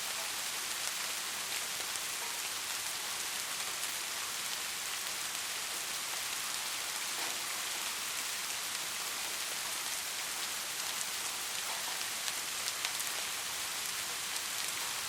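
Steady rain falling: an even hiss, with occasional sharper drop ticks standing out, a few near the end.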